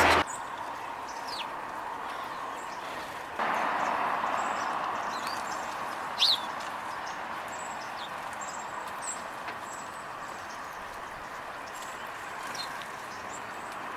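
Small birds chirping with short, high calls, one louder chirp about six seconds in, over a steady outdoor background hiss that rises suddenly about three seconds in and slowly eases off.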